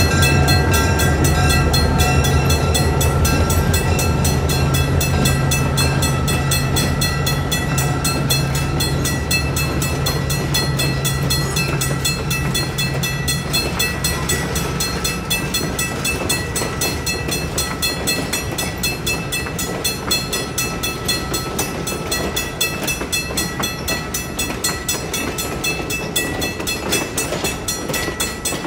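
A train running by: a low, steady locomotive engine drone that fades out about halfway through, over a continuous rolling clatter of railcars on the track.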